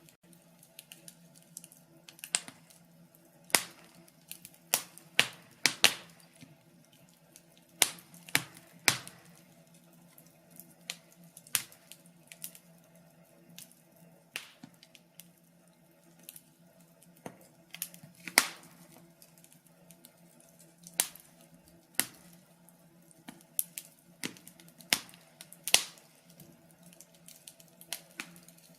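Wood fire crackling: irregular sharp pops and snaps, roughly one a second and sometimes two or three in quick succession, over a faint steady low hum.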